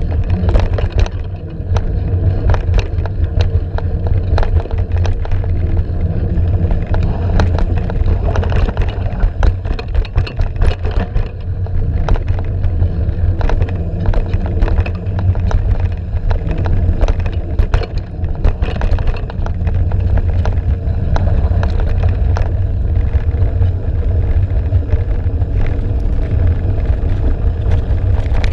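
A vehicle engine running low and steady on a rough off-road descent, with many irregular knocks and rattles from the vehicle jolting over the trail.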